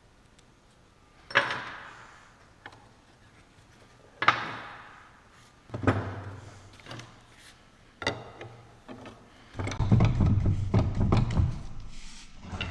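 Metal parts of a Salisbury differential being knocked and handled during teardown: four sharp metallic knocks, each ringing briefly, then a couple of seconds of rumbling clatter near the end.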